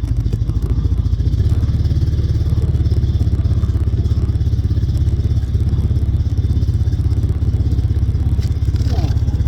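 Small vehicle engine running steadily at an even pace, its exhaust pulses coming fast and evenly.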